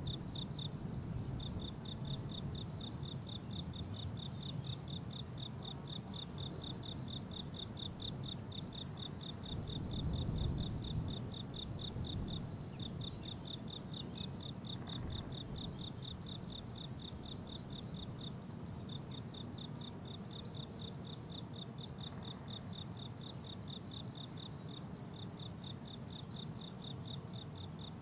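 Crickets chirping on a summer meadow: a steady, rapid run of even, high-pitched pulses that goes on without a break. A faint low rumble sits underneath.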